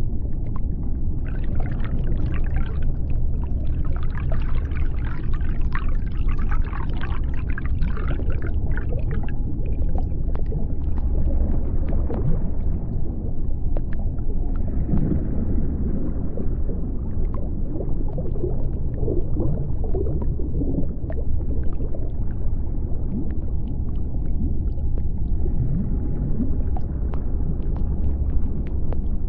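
Underwater ambience: a constant deep rumble with crackling and bubbling, strongest in the first third, and a few wavering low pitched sounds in the middle.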